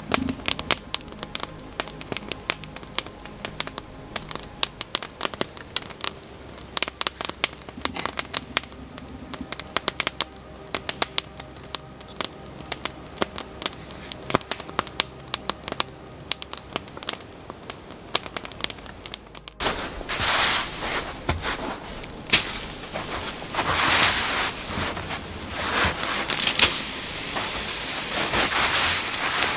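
Wood campfire crackling with many small, sharp, irregular pops. About two-thirds of the way through, the sound changes abruptly to a louder, rougher rushing noise that swells and falls in irregular surges.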